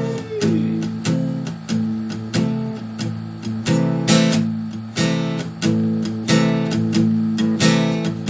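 Instrumental break in a song: acoustic guitar strumming chords in a steady rhythm.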